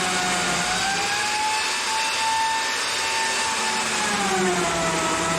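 Light-duty chainsaw engine running on a chainsaw mill, its pitch rising about a second in, holding, then dropping back near four seconds.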